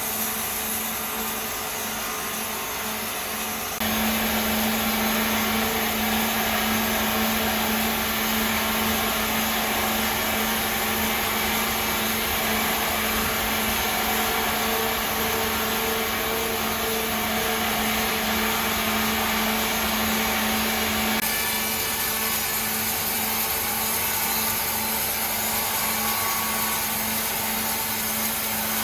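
Sawmill machinery running steadily: a constant hum over broad machine noise. The sound jumps louder about four seconds in and shifts abruptly again around twenty-one seconds.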